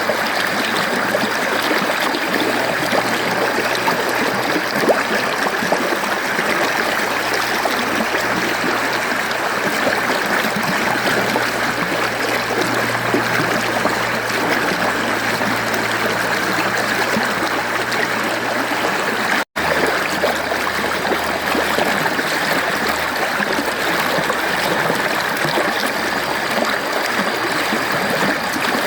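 Mountain stream flowing, a steady even rush of water. A split-second gap of silence about two-thirds of the way through.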